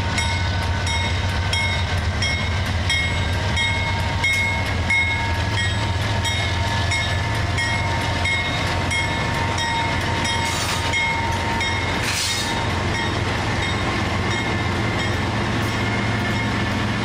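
BNSF and Norfolk Southern diesel locomotives heading a loaded grain train, running steadily with a low rumble as they pass slowly at close range. A locomotive bell rings about twice a second throughout. A brief hiss comes about two-thirds of the way through.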